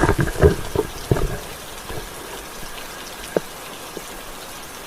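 Steady rain hiss, with a quick cluster of knocks and bumps in the first second and a half and one more sharp knock a little after the middle.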